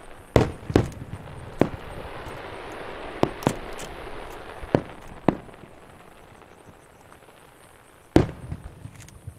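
Aerial fireworks shells bursting: about eight sharp bangs at uneven gaps, with a lull before one of the loudest near the end, over a hiss that fades away.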